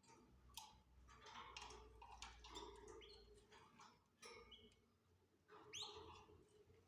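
Canaries giving faint short chirps and cheeps in a breeding cage. A louder rising call comes near the end.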